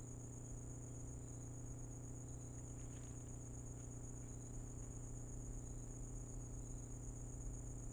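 Night insect chorus of crickets: a steady high-pitched trill, with short chirps at a lower pitch coming in irregularly and a steady low hum underneath.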